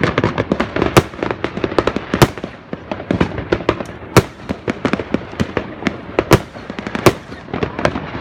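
Fireworks going off in a dense, irregular crackle of pops, with several louder bangs standing out among them.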